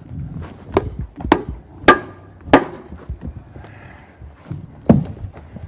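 Five sharp knocks, like something hard striking wood: four in quick succession about half a second apart, then one more about two seconds later.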